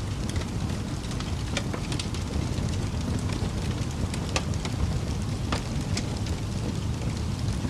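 Wood fire crackling in a fireplace: a steady low rumble of burning with scattered sharp pops and snaps, a handful of them louder, around two, four and a half and five and a half seconds in.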